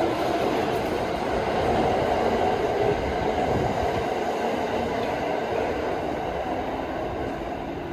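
Electric train running on the rails: a steady rumble of wheels on track with a faint hum from the motors that fades early on, the whole sound easing off slightly toward the end.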